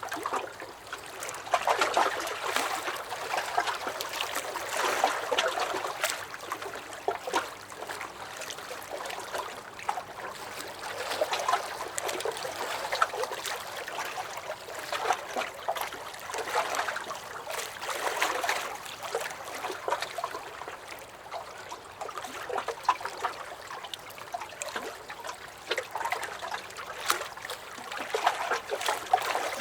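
Small lake waves lapping and sloshing against a dock, with little splashes and trickles, swelling and easing every couple of seconds.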